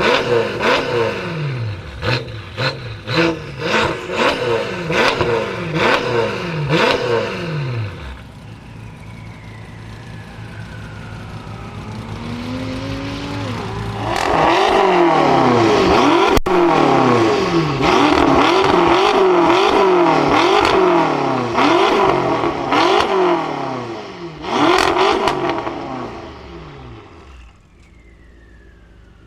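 A BMW performance car's engine being revved hard in a rapid series of blips, with sharp exhaust crackles and pops. It drops back for several seconds to a quieter rising engine note, then revs repeatedly again before fading out near the end.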